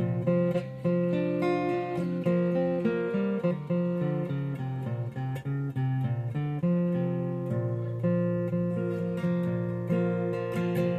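Acoustic guitar strumming chords, with a steady rhythm of strokes.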